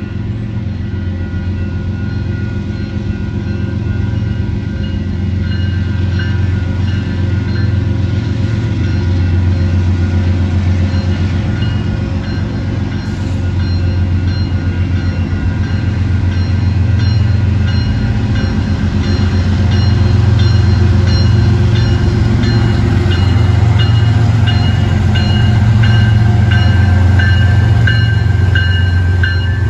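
Union Pacific diesel-electric locomotives at the head of an intermodal stack train, approaching at slow speed, their low engine hum growing steadily louder as they near. From about six seconds in, a high ringing repeats steadily over the engine sound.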